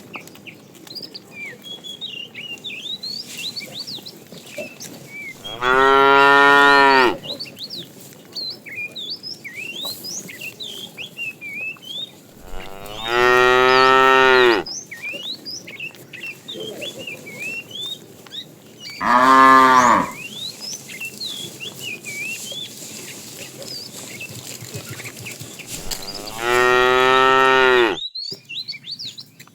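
Cattle mooing: four long, loud moos spaced several seconds apart.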